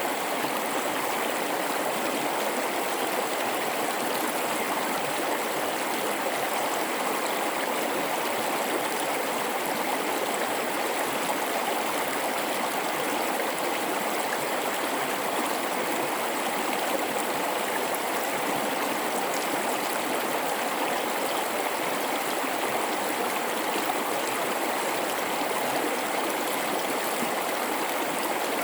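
River water flowing through a gorge, a steady, even babbling rush of water with no breaks.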